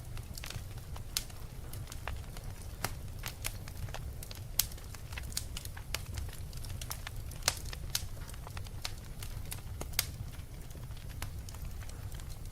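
Fire crackling: irregular sharp pops and snaps over a steady low rumble, with a few louder pops scattered through.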